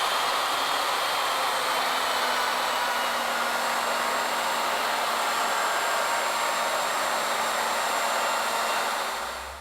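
Router motor running steadily at full speed while its 1-inch rope molding bit cuts a spiral groove along the tapered table leg on an ornamental mill, the first of four rope starts. The motor winds down near the end.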